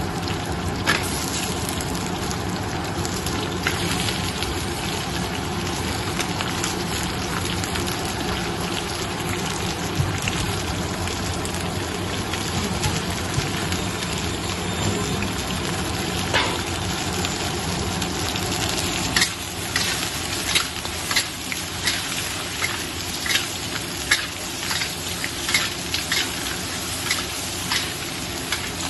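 Crab stir-frying in a hot pan with a steady sizzle. About two-thirds of the way through, the sizzle eases slightly and a utensil starts clicking and scraping against the pan several times a second as the crab is tossed.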